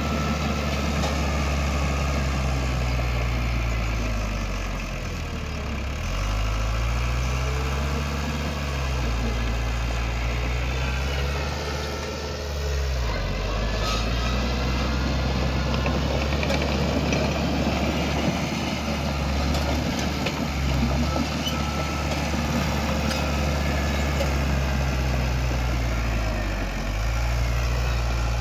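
Heavy diesel engine of earthmoving machinery running continuously. Its pitch sags and recovers three times, about a fifth of the way in, near the middle and near the end.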